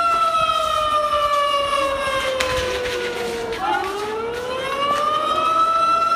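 Siren wailing: one held tone that slowly falls in pitch for about three and a half seconds, then rises again.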